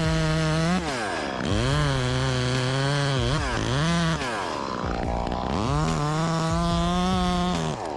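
Two-stroke chainsaw running at high revs, dropping off and revving back up about four times, with a lower, steady stretch in between as it works through wood.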